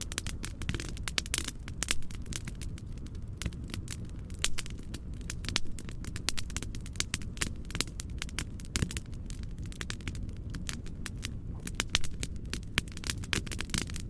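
Wood fire in a fireplace crackling, with frequent irregular sharp pops and snaps over a steady low rumble of noise.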